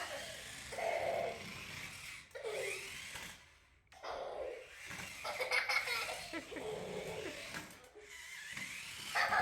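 A baby laughing and giggling in repeated short bursts, with a brief lull partway through.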